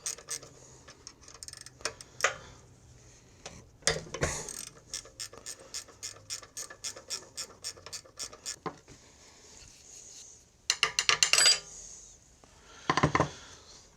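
Socket ratchet clicking in quick runs as the 10 mm connecting-rod cap bolts of a Honda GX140 engine are backed out, with a few louder metal clinks near the end.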